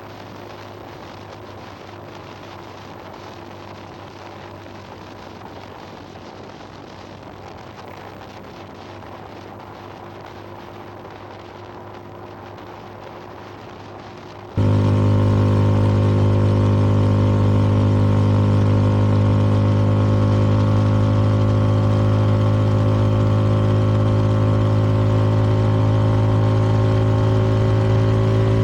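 Motorcycle engine, the CFMoto 300NK's single cylinder, running at a steady cruising speed with a constant hum. About halfway through it suddenly becomes much louder and fuller and stays that way, with the pitch creeping up slightly near the end.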